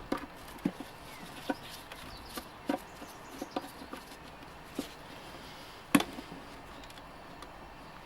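Irregular clicks and knocks of hand tools and plastic parts being handled while a parts washer's switch housing is taken apart, with one louder knock about six seconds in.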